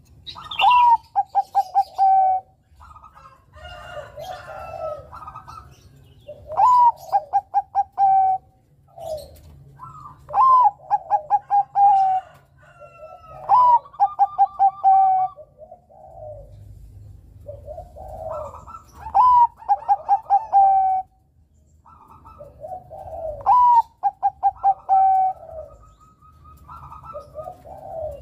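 Bangkok-type zebra dove (perkutut) cooing its song: loud phrases every few seconds, each a rising note followed by a quick run of short coos, with softer coos in between.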